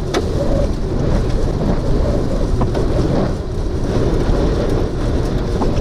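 Steady, loud storm noise of wind and rain, heaviest in the low range, with a few faint clicks.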